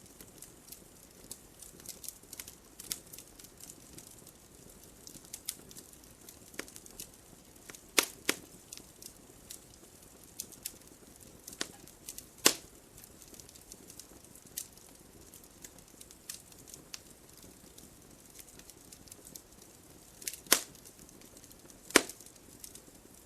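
Wood fire in a fireplace crackling, with a faint steady hiss and irregular sharp pops, a few of them loud.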